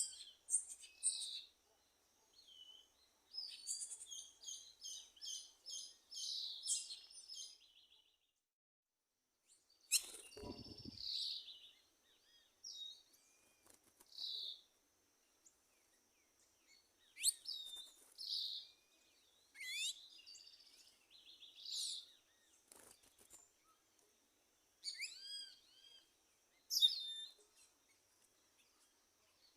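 Several wild birds calling and singing in short chirps and whistled notes, with one rapid run of repeated notes a few seconds in, over a faint steady high tone. A brief low thump comes about ten seconds in.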